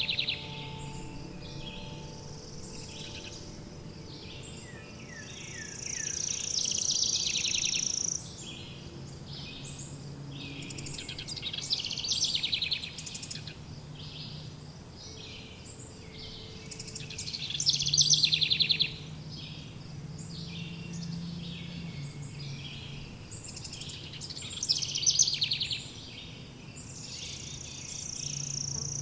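Forest songbirds singing in phrases every few seconds, some with fast trills, over a faint steady low background.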